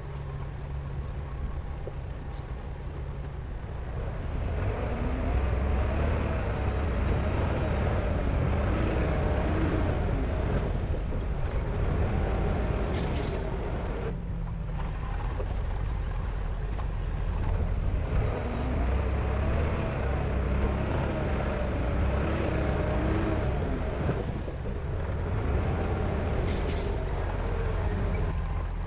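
Heavy diesel earth-moving machinery running under working load, its engine note swelling louder about four seconds in and easing off briefly twice.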